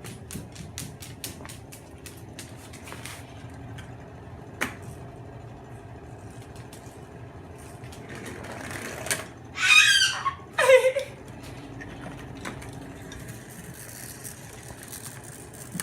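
Moluccan cockatoo giving two short, loud calls about ten seconds in, the second falling in pitch. Before that, a quick run of light clicks and taps, then a single tap a few seconds later.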